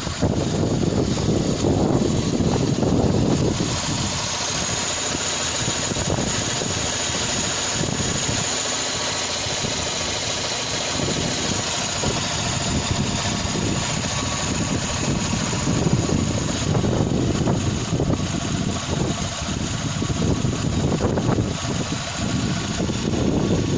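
UZAM-412 four-cylinder car engine fitted with contactless electronic ignition, running steadily.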